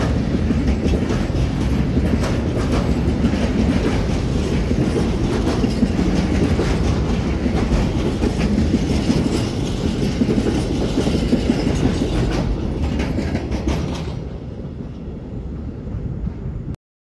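Intermodal container freight train's wagons rolling past, a steady heavy rumble with scattered wheel clicks over the rail joints. About fourteen seconds in, the last wagon passes and the sound falls away, then it cuts off abruptly.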